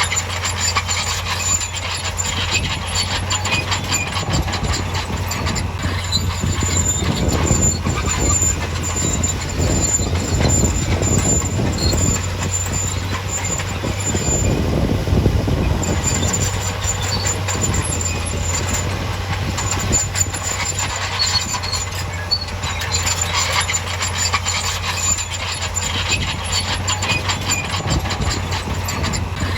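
Heavy earthmoving machinery working: a diesel engine running steadily under continuous metallic clanking and rattling, with a thin high-pitched squeal that drops out for a couple of seconds about halfway through.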